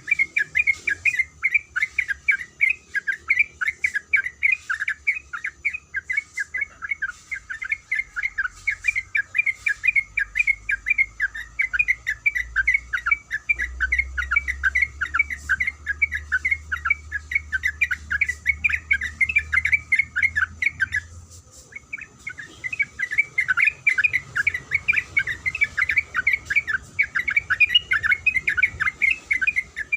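Sooty-headed bulbul (trucuk) calling in a long, rapid run of chattering notes, breaking off briefly about two-thirds of the way through and then carrying on.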